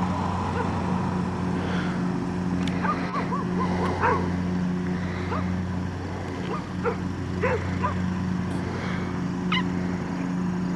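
A dog whimpering and yipping in short, high, scattered calls over a steady low hum.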